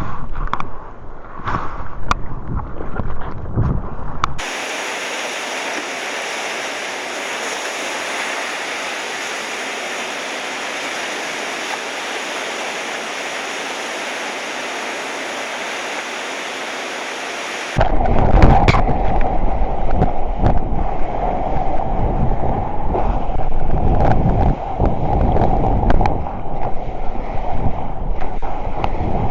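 Ocean surf with wind buffeting the microphone. From about four seconds in to about eighteen seconds in it cuts to a steady, even hiss with no low rumble, then the wind-buffeted surf returns.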